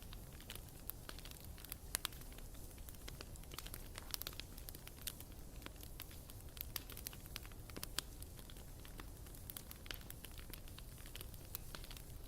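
Bonfire burning, wood crackling and popping in irregular sharp snaps over a steady low rumble of the flames, with a couple of louder pops.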